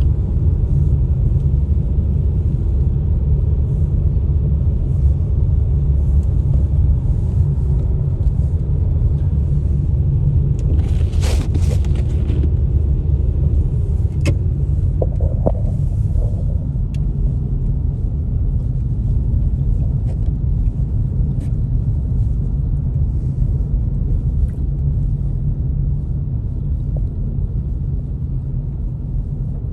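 Steady low rumble of a car driving on a highway, with a short swish about eleven seconds in and a few faint clicks.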